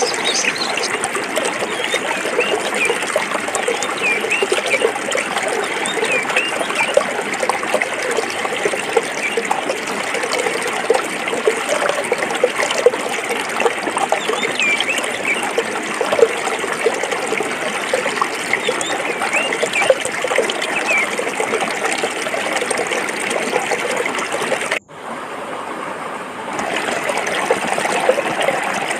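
Water of a forest stream running and babbling over rocks, a steady dense rush with fine gurgles. About 25 seconds in the sound cuts out for an instant and comes back quieter for a second or two before returning to full level.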